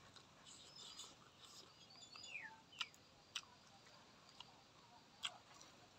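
Faint chewing, with a few soft mouth clicks and smacks as food is eaten; faint bird chirps in the background.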